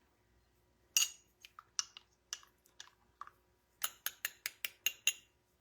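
Small metal spoon clinking against a glass coffee cup as creamer is stirred into the coffee: a sharp clink about a second in, a few scattered ones, then a quick run of about eight clinks near the end.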